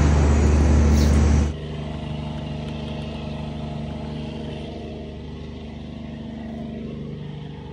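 Loud traffic and engine noise with a heavy low hum, cut off abruptly about a second and a half in. A quieter car engine then idles steadily.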